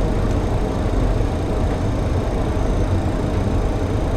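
Steady rushing cockpit noise of a Boeing 737-800 on short final, airflow and engines blended, with a low hum underneath and a faint thin steady tone.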